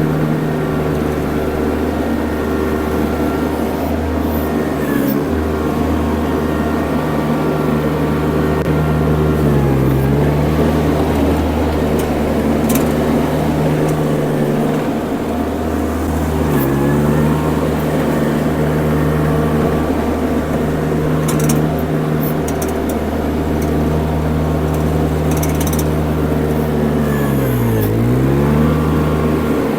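Mini skid steer engine running steadily under load while grading. Its revs dip briefly three times as the machine takes load, then recover.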